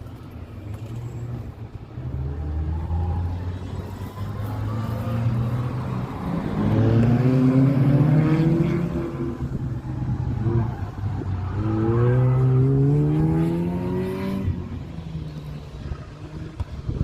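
Supercar engine accelerating hard. Its note rises in pitch twice with a gear change between, then cuts back suddenly near the end.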